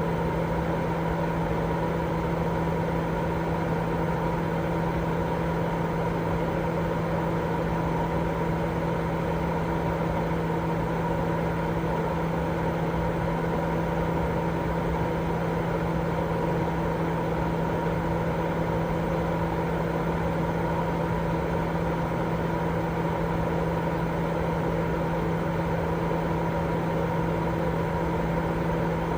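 Continuous white noise for baby sleep: a steady, unchanging rush with a constant machine-like hum of a few fixed tones running underneath.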